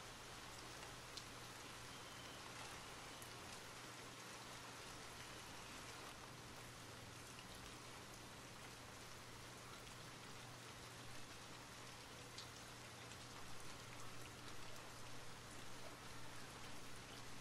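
Steady rain falling, a soft even hiss with a few faint drop ticks.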